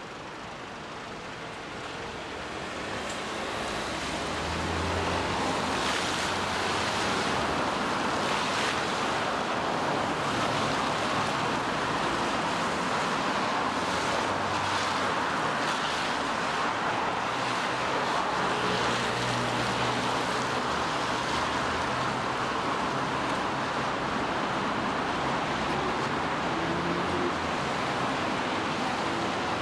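Steady rain falling, growing louder over the first few seconds and then holding even, with a faint hum of city traffic underneath.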